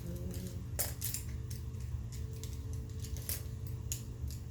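Light clicks and rattles of makeup brushes being handled and picked through, a few sharp ticks scattered across a second or so at a time, over a steady low hum.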